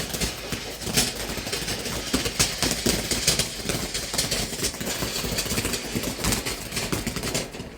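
A firework burning with a steady fizzing crackle of many small rapid pops.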